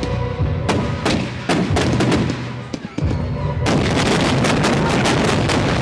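Fireworks going off in a rapid string of sharp bangs, which thickens into a dense, almost continuous barrage of reports from about three and a half seconds in.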